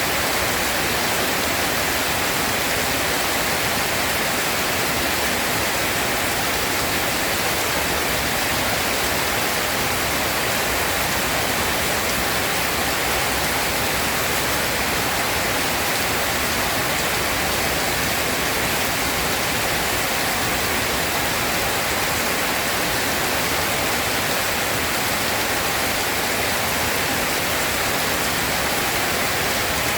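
Steady rain falling, a dense, even hiss with no thunder or single drops standing out.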